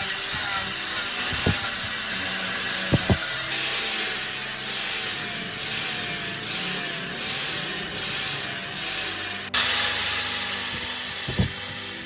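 Abrasive sanding or polishing on a steel sword blade: a continuous rasping scrape with a wavering steady whine underneath. In the middle it falls into even strokes a bit more than once a second, with a few low knocks.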